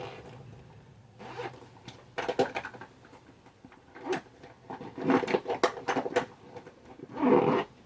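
Small makeup items clicking and rustling as they are put away into a bag, with a zipper pulled shut near the end.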